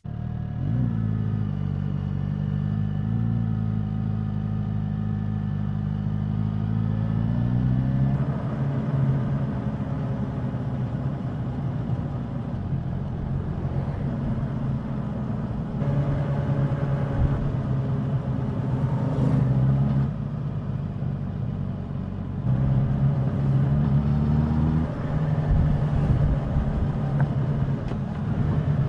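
Suzuki GSX-S1000's inline-four engine and exhaust under way on the road, the engine note rising and settling several times as the throttle opens and closes.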